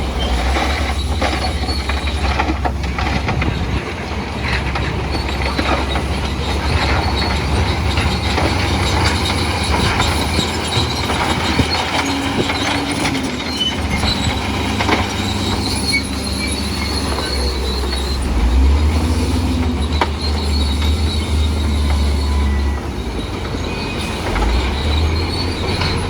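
Crawler bulldozer working: a steady low diesel rumble with high metallic squealing and clanking from its steel tracks.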